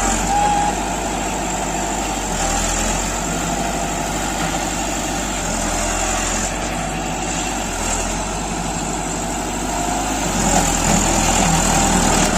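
Heavy farm machine's diesel engine running steadily, growing somewhat louder over the last couple of seconds.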